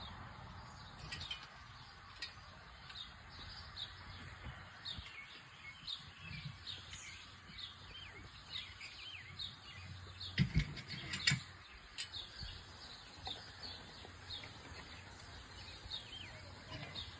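Birds chirping, many short quick calls over faint outdoor background noise. A couple of dull low thumps come about ten seconds in.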